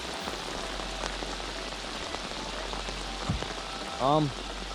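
Torrential downpour: heavy rain pelting down steadily, with a brief low thump past the middle and a short voiced sound from a person near the end, the loudest moment.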